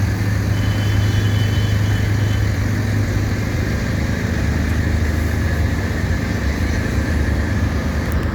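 Tractor engine running steadily at low revs, its low hum dropping slightly in pitch about three and a half seconds in.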